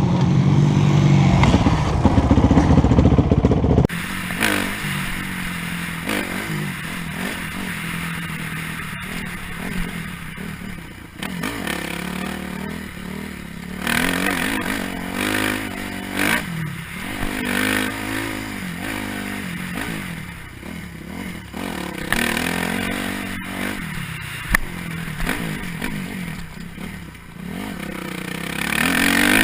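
Dirt bike engine running on a rough trail, revving up and easing off again and again, with rattling and scraping from the bike over the ground. The sound changes abruptly about four seconds in, from a louder, steadier engine to a quieter one that rises and falls.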